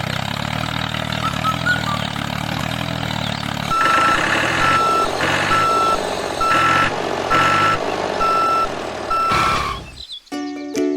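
A motor running steadily, then a vehicle reversing alarm sounding about eight evenly spaced beeps over it, roughly three every two seconds; the sound cuts off shortly before the end.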